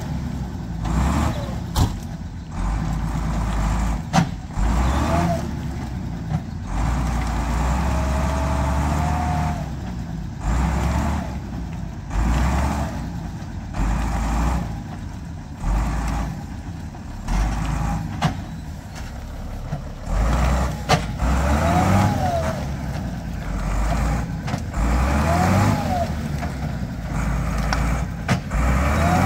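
A vehicle's engine running under load and revving up and down again and again as it drives over slippery ground where the wheels are sliding.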